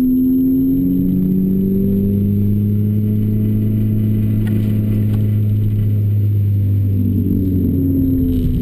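Renault Clio RS four-cylinder engine through a Bastuck aftermarket exhaust, pulling hard under load. The pitch drops at a gear change about a second in, then the revs climb slowly, with a brief rise and fall near the end.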